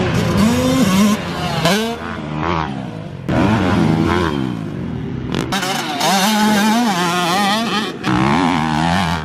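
Dirt bike engine revving up and down as it is ridden on a motocross track, its pitch climbing and dropping several times as the rider works the throttle and shifts.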